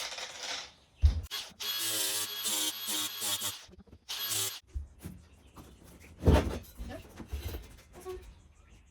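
Angle grinder with a flap disc grinding at a rusted bolt head in short bursts, its motor whine under the grinding noise. Then knocks and clatter, the loudest a few seconds in.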